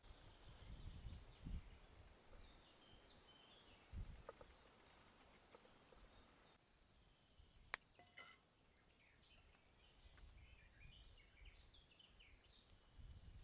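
Faint forest birdsong, short chirps scattered throughout, with a few soft low thumps early on and two sharp clicks close together about eight seconds in.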